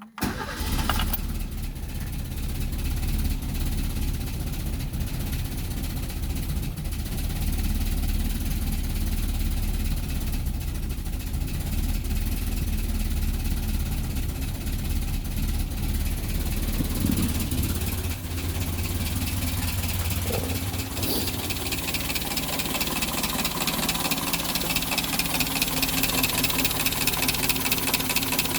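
Talbot Horizon's 1.1-litre Poissy four-cylinder engine running at idle. The sound comes in suddenly at the start, dips briefly about 18 seconds in, and runs steadier from about 21 seconds on.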